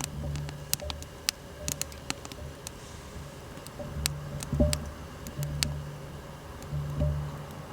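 Wood fire crackling, with irregular sharp pops and ticks, a few a second, one louder pop a little past the middle.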